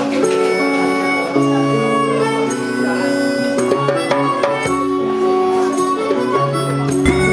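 Live band music: a harmonica plays a melody of held and bending notes over a band accompaniment with a plucked, rhythmic backing.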